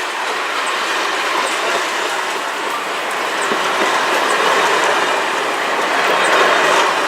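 Cars of the Canadian Pacific Holiday Train rolling past on the rails, a steady, loud noise of wheels on track.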